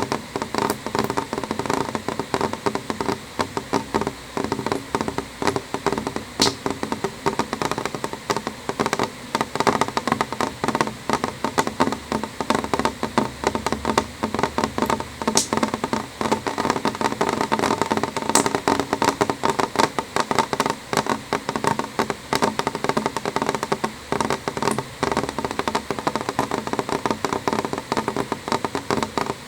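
Rain falling on window glass: dense, irregular drop taps over a steady hiss.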